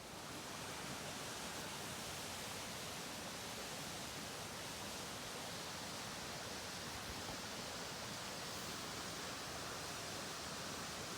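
Steady rush of a mountain stream flowing over its rocky bed.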